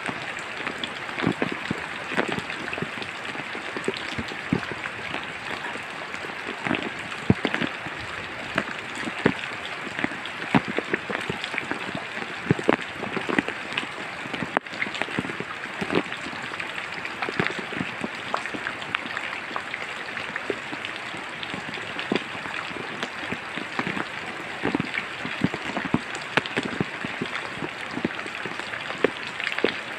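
Steady rain falling in a forest, an even hiss with many sharp individual drops landing close by.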